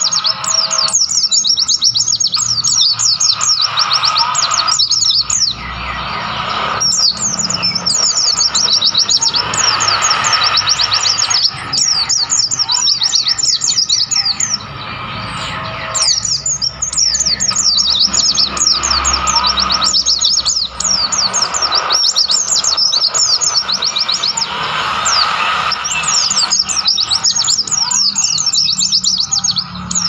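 White-eyes (pleci) singing: a dense, continuous run of rapid, high twittering chirps that drops away briefly a few times, over a steady background hiss.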